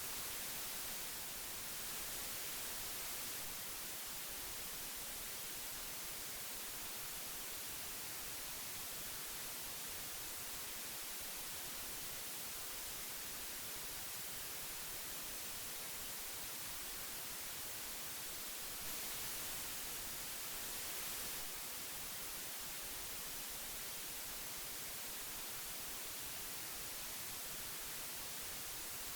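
Steady hiss of old magnetic tape, an even bright noise with slight swells in level twice.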